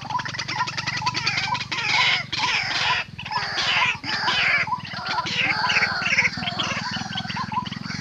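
White-breasted waterhens calling: loud, harsh, rapidly repeated croaking and chattering notes. Under them, a short note repeats about two to three times a second.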